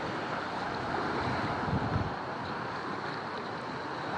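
Ocean surf washing steadily, with wind on the microphone; a brief low rumble about two seconds in.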